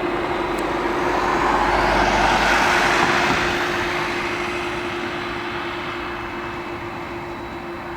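Boeing 767 jet engines passing by. The rushing noise swells to its loudest about two and a half seconds in and then fades, over a steady whine.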